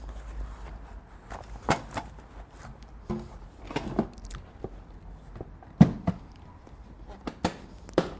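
Camping gear being shifted and pushed down into a motorcycle side case: a scatter of knocks, clunks and rustles, the sharpest knock about six seconds in.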